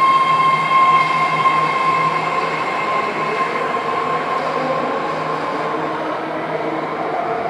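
BART train moving away along the track, with a steady high-pitched whine that fades out over the first few seconds, over running noise that slowly dies down.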